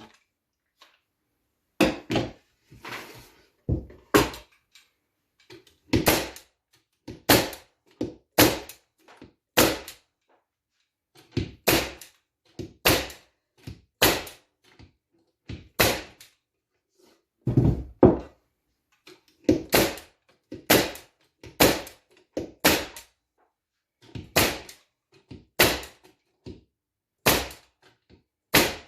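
A wooden beehive box being assembled: repeated sharp blows knocking its corner joints together, about one a second with short pauses and some quick doubles.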